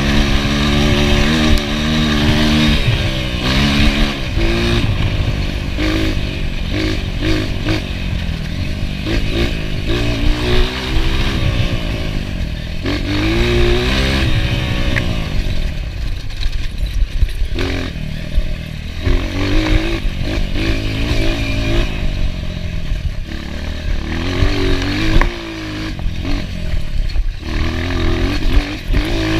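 Enduro dirt bike engine being ridden hard, revving up and down over and over as the throttle opens and closes, with scattered knocks and clatter.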